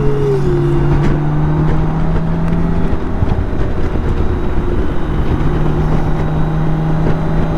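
BMW K1600 GTL motorcycle's inline six-cylinder engine running at a steady cruise, heard under heavy wind and road noise. The steady engine note fades for a couple of seconds about midway, then comes back.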